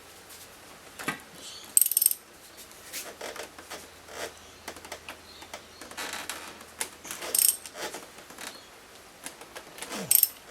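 Socket ratchet clicking and steel tools clinking while a 21 mm socket is worked on a motorcycle fork's top nut, with a few sharp metallic clinks, the loudest about two seconds in. The fork tube turns in a loose triple clamp instead of the nut letting go.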